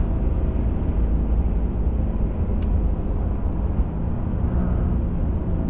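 Pickup truck driving at a steady pace, a continuous low engine and road rumble with a steady hum, and one brief click about two and a half seconds in.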